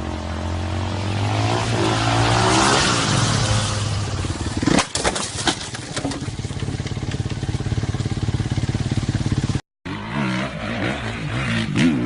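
Motorcycle engine running and revving, its pitch rising and falling, with a cluster of sharp knocks about five seconds in. The sound breaks off briefly just before ten seconds, and another engine then revs.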